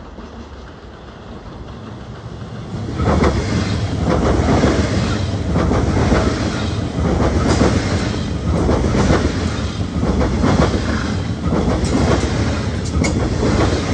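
An SBB FV-Dosto double-deck electric train passes close by, its wheels clattering in a rapid run of knocks over rail joints and points. The sound swells suddenly about three seconds in as the train reaches the microphone.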